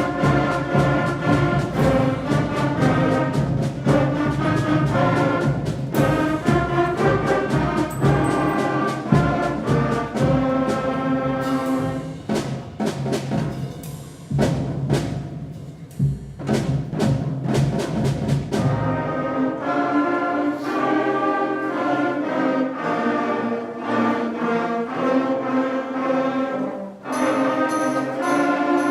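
Fifth and sixth grade school concert band playing a piece: brass and woodwinds over timpani and drums, with frequent sharp percussion hits. About two-thirds of the way through, the low brass and drums drop away and a lighter, higher passage of winds carries on.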